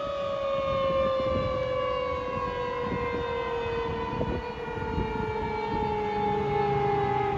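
Fire truck siren sounding one continuous tone that falls slowly and steadily in pitch, over the low rumble of the truck.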